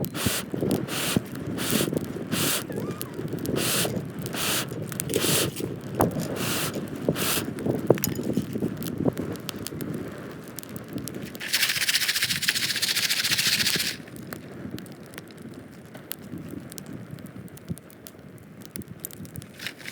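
A popcorn pan being shaken over a campfire, its contents rattling in a steady rhythm about twice a second, which stops after about seven seconds. The campfire crackles throughout, and a steady hiss runs for about two seconds past the middle.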